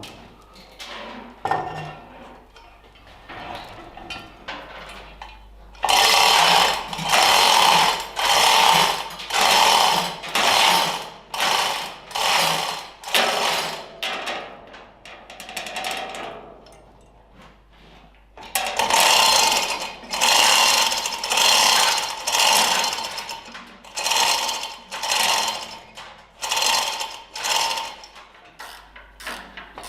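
A hand tool working the bolts of a tractor clutch cover: two runs of short, loud rattling strokes, a little more than one a second, with a pause of a few seconds between the runs.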